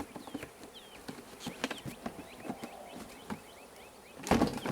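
Honey bees buzzing around a freshly closed hive, over scattered knocks and clicks from the wooden hive parts being handled, with a louder clatter near the end. Short falling bird chirps sound in the background.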